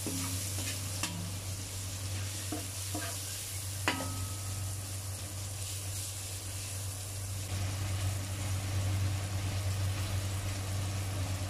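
Chopped onion and garlic sizzling in hot oil in a stainless steel pan as a metal ladle stirs them, with a few light clicks of the ladle against the pan, the sharpest about four seconds in. A steady low hum runs underneath.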